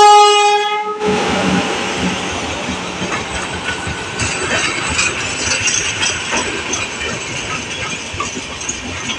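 Indian Railways electric locomotive's horn held in one steady blast that cuts off about a second in. Then the passenger coaches of the express run past with a steady rolling noise and wheel clicks over the rail joints.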